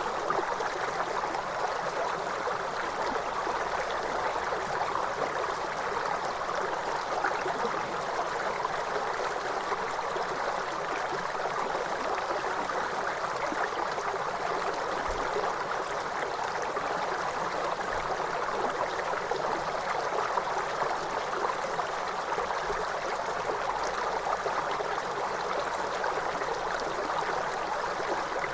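Waterfall: a steady, unbroken rush of falling water, more splash than deep rumble.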